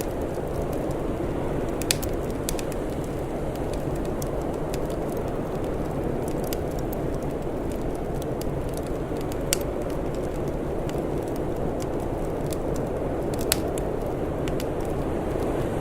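Wood fire crackling, with scattered sharp pops of varying loudness, three louder ones standing out, over a steady low rushing noise.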